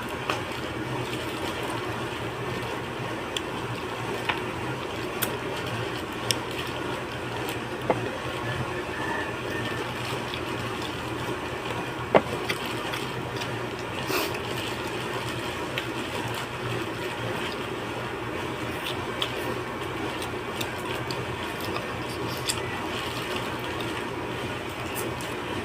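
Eating sounds of fish soup: wet slurping and chewing, with scattered sharp clicks, over a steady low hum.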